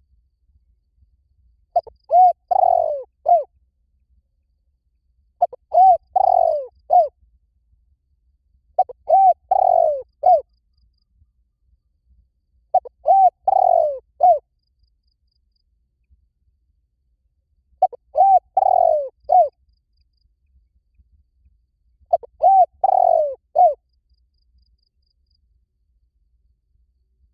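Spotted dove cooing: six matching phrases of a few low, hooting coo notes each, repeated about every four seconds.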